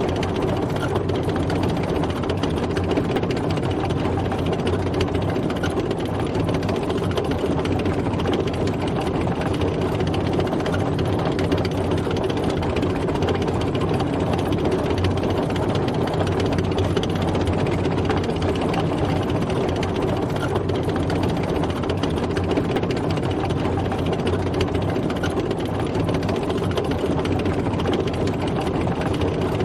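Military tank driving, its heavy engine running steadily at an even pace.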